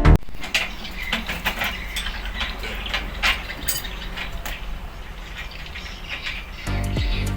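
Scattered light clicks and clinks of metal parts being handled, over a low steady hum. Music comes back in near the end.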